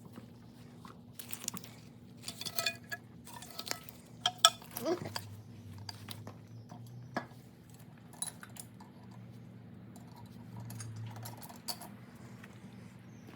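Scattered metallic clinks and knocks of hand tools and bolted engine parts being handled during an engine teardown, over a steady low hum.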